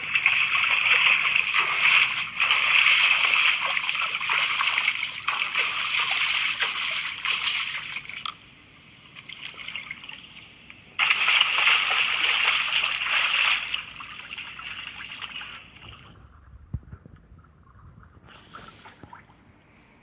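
Water splashing and sloshing as people bathe in a freshly built outdoor pool, in two loud stretches: for the first eight seconds, then again from about eleven to fourteen seconds in, with fainter water sounds between and after.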